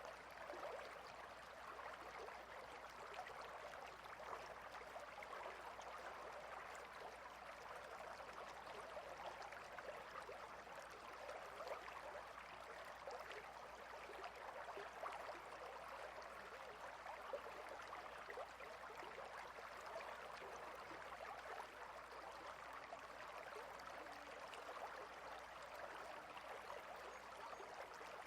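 Clear, fast river flowing between rocks: a steady, faint babble of running water with fine splashing.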